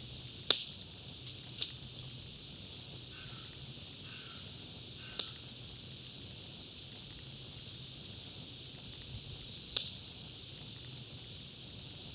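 Campfire crackling: a steady hiss with a few sharp pops, the loudest about half a second in, then others near 1.5 s, 5 s and 10 s.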